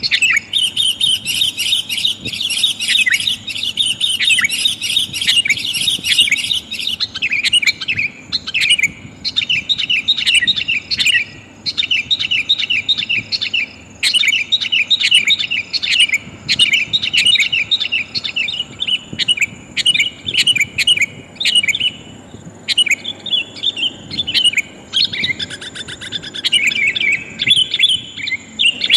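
Sooty-headed bulbul (kutilang) chattering: fast runs of bright chirps broken by short pauses, labelled as a female calling to draw in males. The calls are used as a trapping lure.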